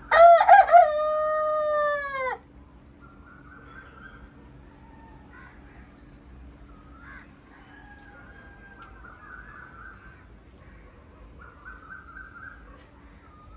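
A rooster crows once, loud, for about two seconds, its pitch bending down at the end. Faint scattered bird calls follow.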